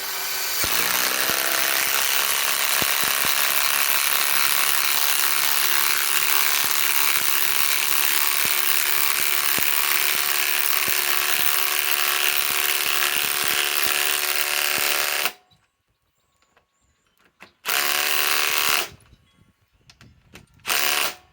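Ryobi PSBIW25 compact cordless impact wrench hammering a large lag screw into wood that has not been pre-drilled. It runs continuously for about fifteen seconds, its motor whine rising as it spins up, then gives two short bursts to seat the screw.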